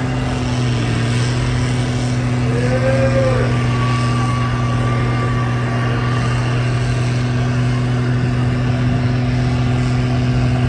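A vehicle engine running at a steady speed with a loud, even low drone. Briefly, about two and a half seconds in, a short tone rises and falls over it.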